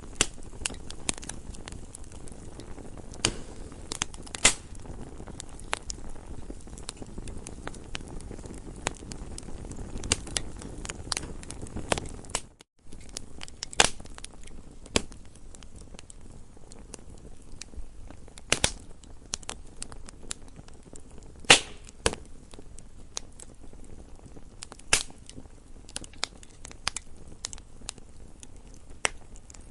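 Campfire crackling: burning wood gives off irregular sharp pops and snaps, some much louder than others, over a low steady rush of the flames. The sound cuts out for an instant about halfway through.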